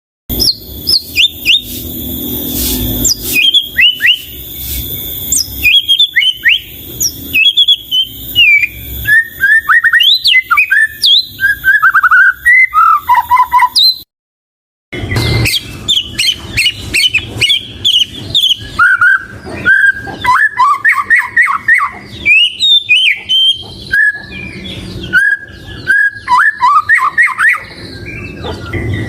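White-rumped shama (murai batu) singing a fast, varied song of loud whistled notes that slide up and down in pitch, broken by about a second of total silence midway.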